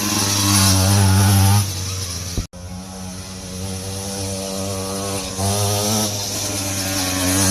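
Kids' dirt bike's new 50cc two-stroke engine running, its level rising and falling with the throttle: louder for the first second and a half and again near the end. The sound breaks off sharply for an instant about two and a half seconds in.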